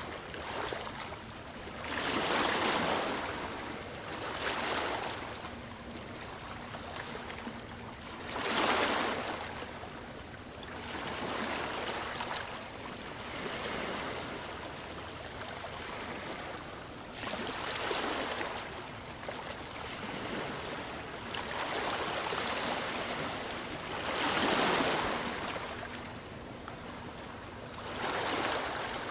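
Sea waves breaking and washing ashore, a hissing surge that swells and falls away every few seconds. A faint steady low hum runs underneath.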